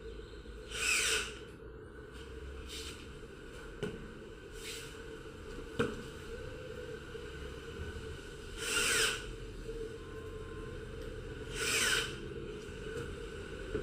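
Hand-tool work on a workpiece: separate rasping strokes that sweep downward in pitch, the loudest three about a second in, near 9 seconds and near 12 seconds, with two sharp clicks in between, over a steady low hum.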